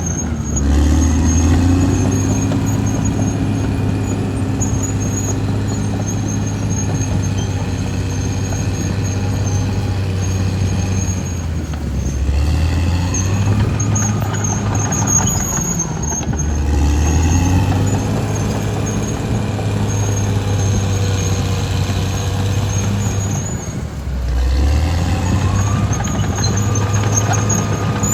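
Caterpillar D6R XL bulldozer working: its diesel engine runs loud and steady, the engine note dropping and picking back up several times as the machine changes load or direction. A thin high squeal runs over it, typical of the steel track undercarriage.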